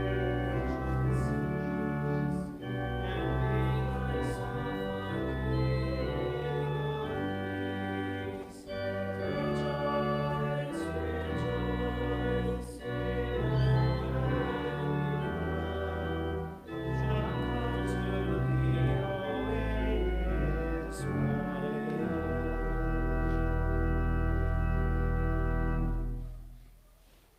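Church organ playing a hymn in sustained chords, ending on a long held final chord that is released about 26 seconds in.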